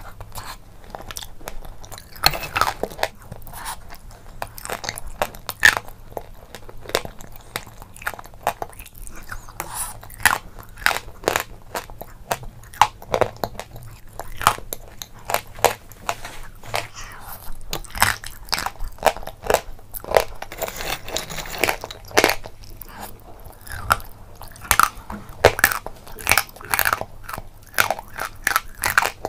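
A person chewing and crunching crunchy and creamy food close to the microphone, with sharp crunches at an irregular pace, several a second at the busiest.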